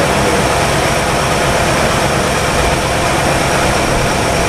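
A 1962 Chevrolet engine idling steadily, freshly revived after decades parked.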